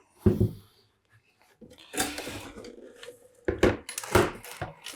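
Plastic housing of a Makita site radio being pulled apart and handled: a knock, a scraping rattle, then several sharp knocks and clatters near the end.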